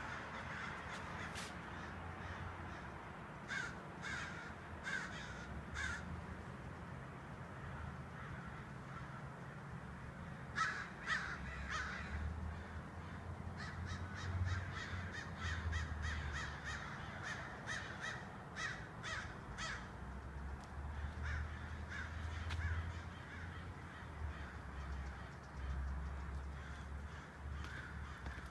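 Birds calling in runs of short, quickly repeated calls, with a long dense run about halfway through, over a low steady rumble.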